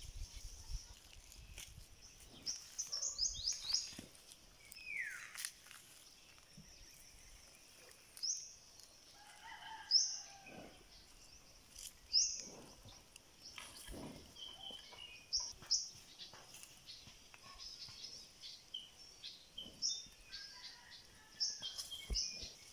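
Birds chirping: short, high, rising chirps every second or two, a quick run of them about three seconds in, and one lower falling note about five seconds in, over faint scattered rustling.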